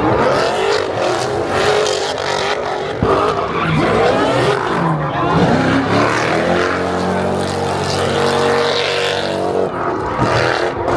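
Car engine running loudly, held at steady revs for a few seconds in the second half, with voices mixed in.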